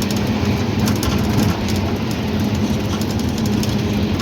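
Truck engine running steadily while the lorry drives along the road, a constant low drone.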